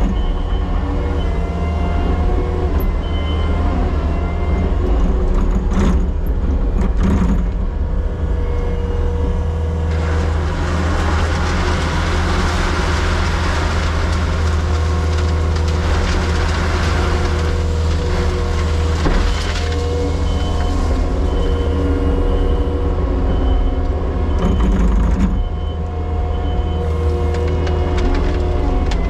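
Diesel equipment engine running at a steady speed throughout. A rougher, hissing stretch of noise rides over it for several seconds in the middle.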